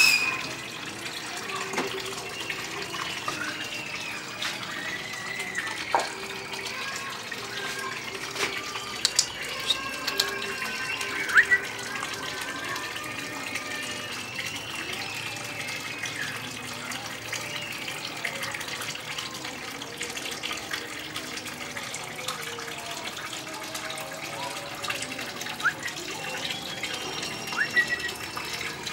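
A group of cockatiels chattering continuously in overlapping calls, with a few sharp, short chirps standing out.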